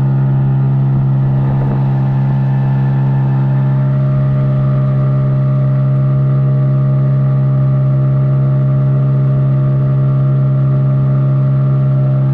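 Boat engine running steadily at a constant speed, a loud, even drone with an unchanging pitch.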